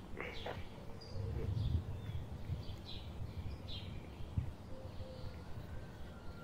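Birds chirping outdoors: a scattering of short, high calls over a steady low rumble.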